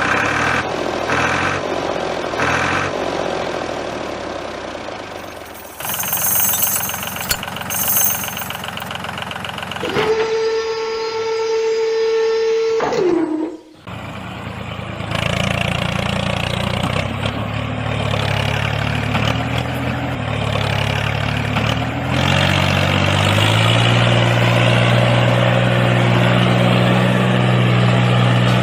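Vehicle engine sounds. About ten seconds in, a steady high tone holds for about three seconds and cuts off. From about fifteen seconds an engine runs steadily, steps up in pitch about 22 seconds in, and holds there.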